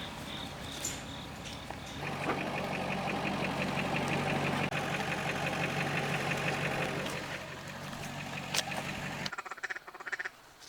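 A vehicle engine running steadily while driving, getting louder about two seconds in and easing off again near the end. It then cuts off abruptly to a much quieter stretch with faint duck calls.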